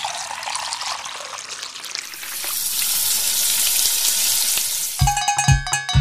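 A steady sizzling hiss with no beat under it, swelling about two seconds in, played as a break in a kitchen-utensil band piece. About five seconds in, the percussion comes back: sharp metallic, bell-like strikes over a low beat.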